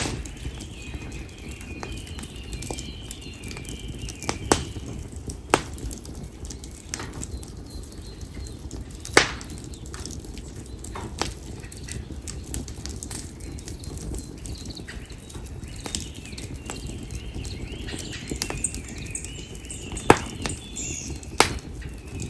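Campfire of split konara oak logs burning with a steady low rustle of flame, and scattered sharp crackles and pops, several of them loud. Birds chirp in the background at the start and again in the last few seconds.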